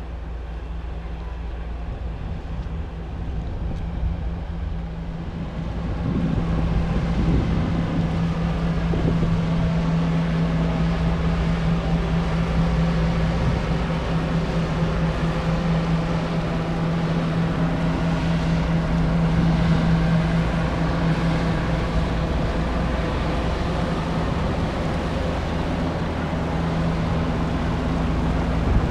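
Honda Forza 300 scooter engine running at a steady cruising speed under heavy wind noise on the microphone. It grows louder about six seconds in, then holds steady.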